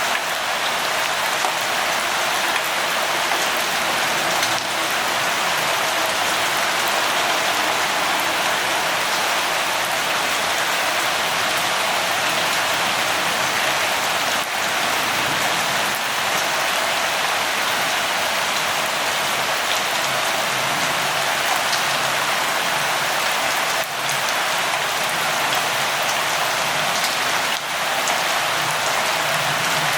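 Steady light rain falling, an even hiss of many drops with faint scattered patters.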